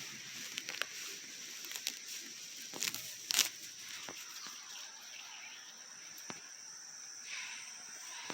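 Crickets chirping steadily in a high, even drone, with a few short rustles and clicks about three seconds in.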